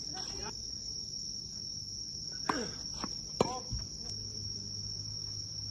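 A steady high-pitched insect drone, likely crickets. Over it come a few sharp pops a little past the middle, most likely a tennis ball being hit and bouncing during a rally.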